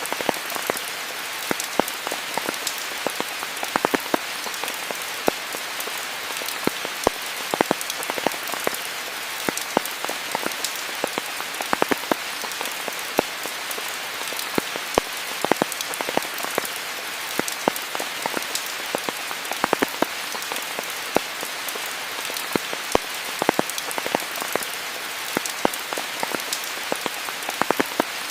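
Steady rain falling on foliage, an even hiss with many close, sharp drips and drop hits scattered through it.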